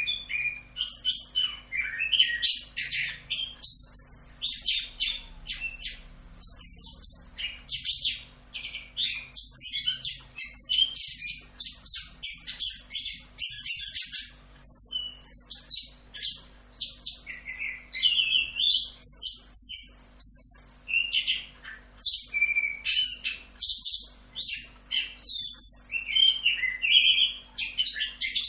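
Chestnut-capped thrush (anis kembang) singing a continuous rolling song: a fast, unbroken string of high, quick sweeping and trilled phrases with no pauses.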